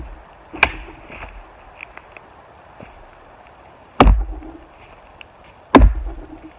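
An axe chopping wood: three heavy blows, one about half a second in and two close together near the end, each a sharp crack with a deep thud.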